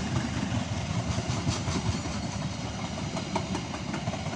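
A train rolling past, a steady rumble with the clicking of its wheels over the rail joints.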